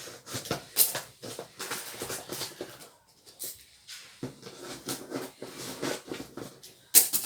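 Parcel packaging being handled and opened: irregular rustling and crackling, with a loud sharp crackle near the end.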